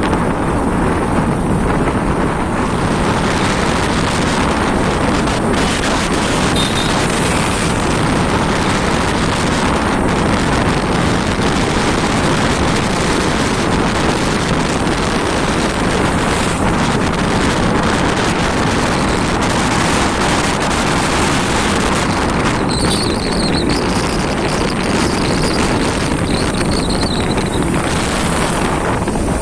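Steady wind buffeting the microphone on a moving motorcycle, with the engine and road noise running under it. A few faint high chirps come through about two-thirds of the way in.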